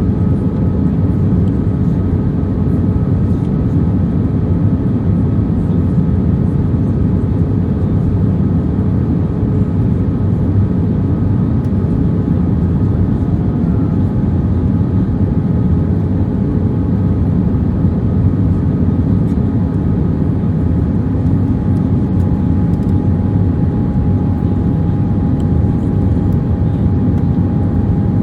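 Steady cabin noise inside an Airbus A319-131 in flight, a loud even rumble of airflow and IAE V2500 engines, with faint steady engine tones above it. One tone fades out over the first half and a slightly different one grows in from about halfway.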